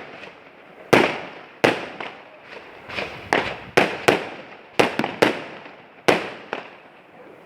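Fireworks going off: a dozen or so sharp bangs at irregular intervals, each with a short fading echo.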